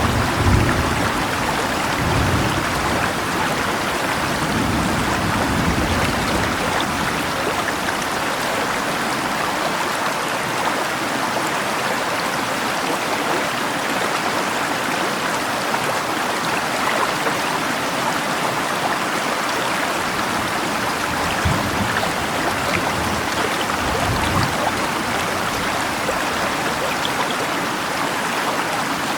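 A river flowing steadily with rain falling, a constant rushing water noise, with a few brief low rumbles near the start and again near the end.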